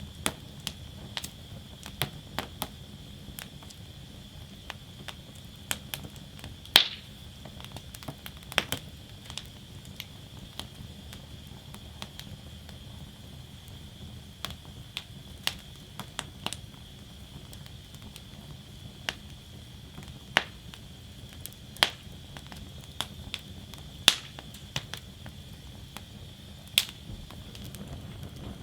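Wood fire burning in a fire basket: irregular crackles and sharp pops from the burning logs, several of them much louder, over a steady low rush of the flames.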